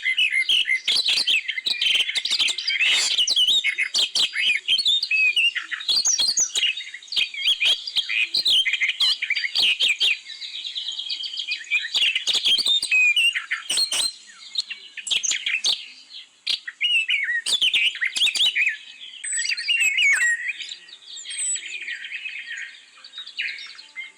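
Many small birds chirping and twittering at once in a dense, overlapping chorus of short high calls, mixed with frequent sharp clicks and taps.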